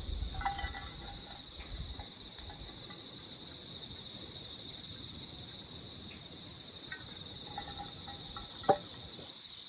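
Night insect chorus of crickets, a steady high-pitched trilling throughout, with a few fainter chirps lower in pitch. A single sharp click about nine seconds in stands out as the loudest sound.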